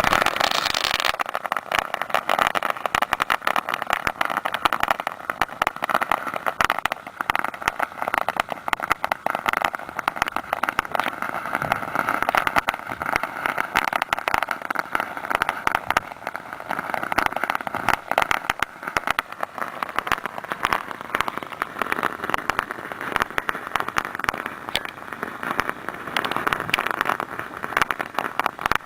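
Ground firework fountain burning with a steady hiss and dense crackling.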